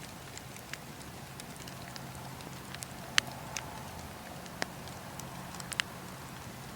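Wood campfire burning, with a handful of sharp, scattered crackles and pops, the loudest about three seconds in. A steady low hum runs underneath.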